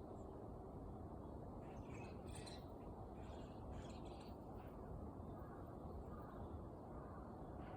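Pet small bird chirping: a quick run of short, high chirps from about two seconds in until nearly five seconds in, over a steady low background hum.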